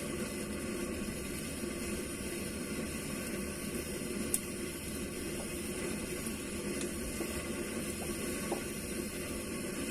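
Steady, quiet sloshing of calm sea water, with a few faint clicks partway through.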